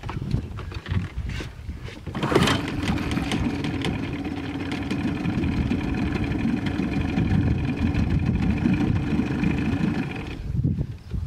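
Boat outboard motor starting: after about two seconds of low rumbling noise it catches with a sudden burst, then runs at a steady low pitch, and stops near the end.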